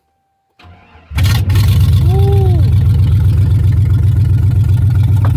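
2000 Chevy Silverado 1500's 4.8 L Vortec V8 with open headers cold-starting: a short crank, then it catches about a second in with a sharp flare and settles into a loud, steady idle.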